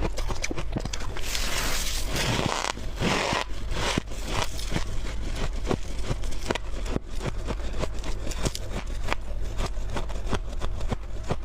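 Soft freezer frost being scraped up and chewed. A dense scraping stretch runs from about one to three and a half seconds in, and rapid, squeaky crunching clicks go on throughout.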